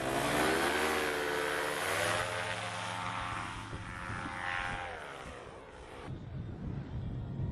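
Paramotor engine and propeller running, its pitch dipping and rising, then falling away and fading after about five seconds.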